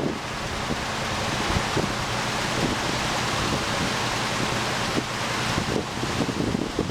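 1948 Chevy grain truck engine running with its PTO engaged, driving the hydraulic hoist that raises the grain box: a steady mechanical drone under an even hiss.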